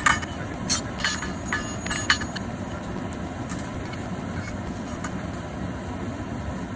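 Cross-peen hammer striking hot steel bar on an anvil, about six ringing blows in the first two seconds, spreading the bar's end out into a flat boss. The blows stop and a steady low rumble carries on underneath.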